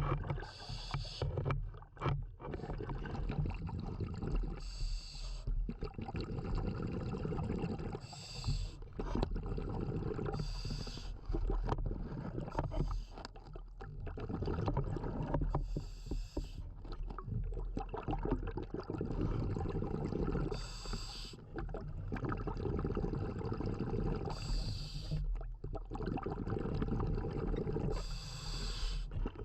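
Scuba diver breathing through a regulator underwater: a short hiss about every four seconds, alternating with longer stretches of low bubbling rumble from exhaled air.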